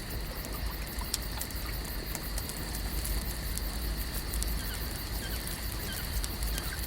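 Layered outdoor lake ambience: a continuous hiss over a low rumble, a steady high-pitched hum, and a dense scatter of small clicks and crackles. A few faint chirps come in the second half.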